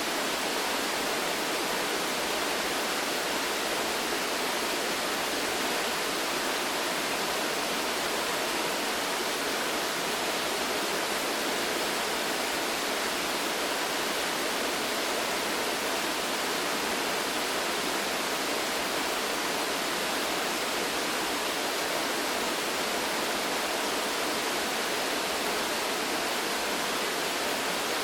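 Waterfall: a steady, unbroken rush of falling water, even from start to end, with little deep rumble.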